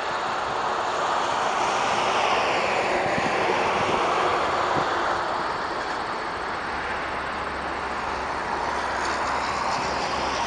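Boeing 747's jet engines running, a steady loud rushing noise whose tone sweeps slowly down and back up; a low steady hum joins about two-thirds of the way through.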